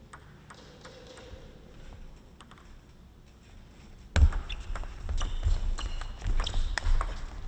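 Table tennis ball clicking faintly off bat and table for about four seconds. Then the hall's crowd bursts into loud clapping and banging, with low thumps, as a point ends.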